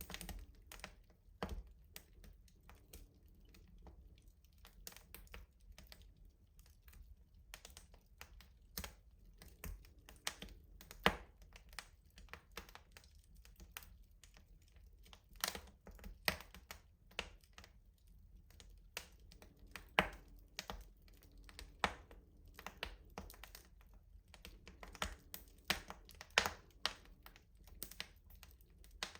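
Wood fire crackling in a rustic stove: irregular sharp snaps and pops of burning wood over a low steady rumble.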